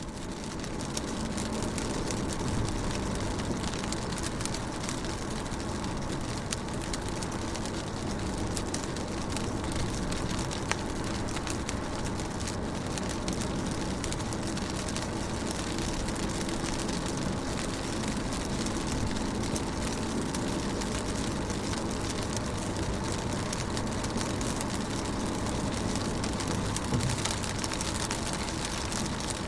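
Steady rain falling on a car's windows and roof, heard from inside the car as an even hiss dotted with fine drop taps, over a low rumble. It fades up from silence in about the first second.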